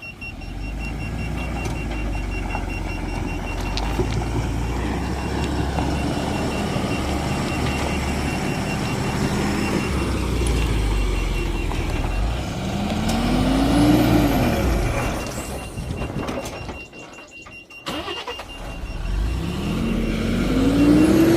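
Loaded tipper truck's diesel engine running as it manoeuvres and backs up to unload, with a steady repeating high reversing beep. The engine revs up twice, about halfway through and again near the end, the pitch rising each time.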